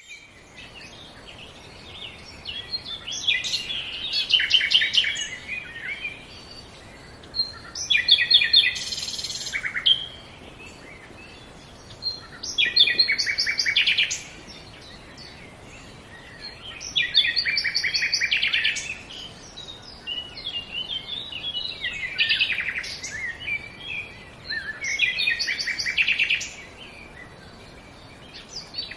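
A songbird singing, repeating a phrase of fast trills and quick chirping notes about every four seconds, with short pauses between phrases.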